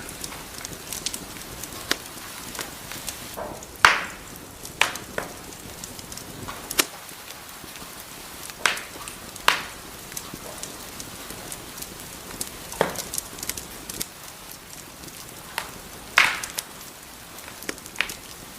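Wood fire burning in a fireplace: a soft steady hiss with irregular sharp crackles and pops, a few of them louder, as the burning wood snaps.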